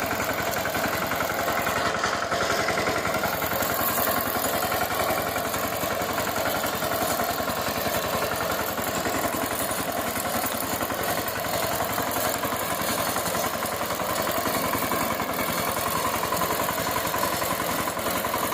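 VST Shakti power tiller's single-cylinder diesel engine running steadily with a fast, even clatter.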